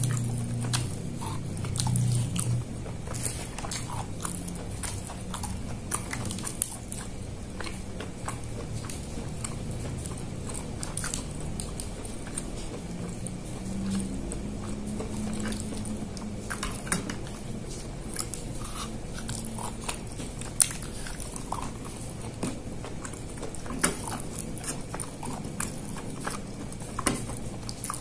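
Close-miked chewing of chicken satay in peanut sauce: wet mouth sounds, lip smacks and many small sharp clicks as pieces are bitten off and chewed.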